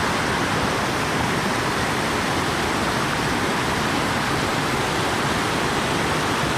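Water rushing steadily down a mountain stream and the grist mill's diverted race, an even, continuous rush.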